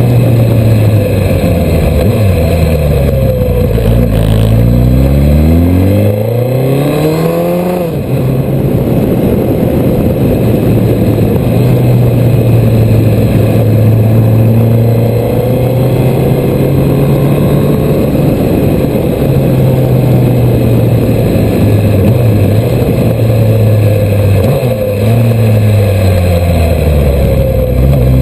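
Suzuki Hayabusa's inline-four engine heard on a ride. The revs drop for several seconds as the bike slows, then climb again. The engine holds a steady pitch through the middle, and near the end the revs fall and rise once more.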